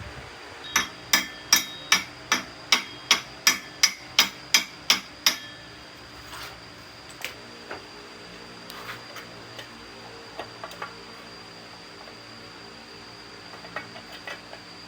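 A hammer striking metal about a dozen times in a quick, even rhythm, a little over two blows a second, each blow ringing briefly. The blows stop about five seconds in and are followed by a few scattered light taps and clicks.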